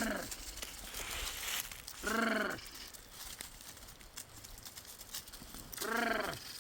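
Three short bleats from the flock, about two seconds apart. Each call rises and then falls in pitch.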